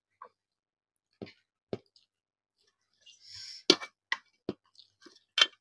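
Mouth sounds of someone eating rice and fish curry: scattered wet smacks and clicks, the two loudest about three and a half seconds in and near the end, with a short hiss just before the first of them.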